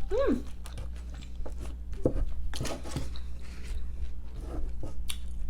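A person biting and chewing food close to the microphone, with scattered crunches and mouth clicks.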